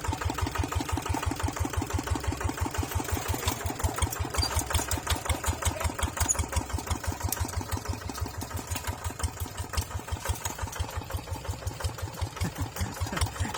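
Tractor engine running at a steady idle with an even, pulsing beat of several firing strokes a second.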